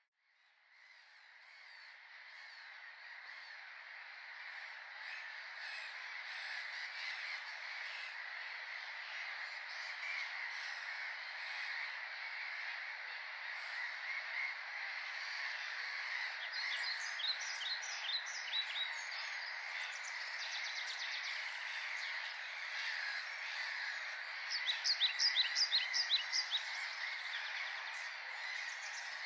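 Dense, continuous chorus of many animals calling at once, fading in at the start, with runs of sharp, rapidly repeated calls standing out over it in the second half and loudest near the end.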